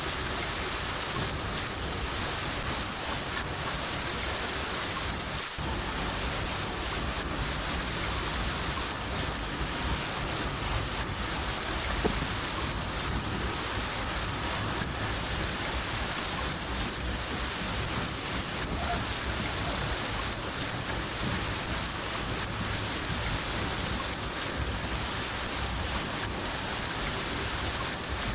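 A cricket chirping steadily at about three chirps a second over the even hiss of steady rain, with a low rumble of thunder underneath.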